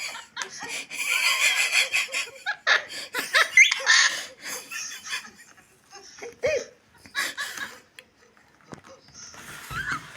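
High-pitched laughter in quick bouts, dense through the first half, then breaking into shorter, sparser bursts with pauses between them.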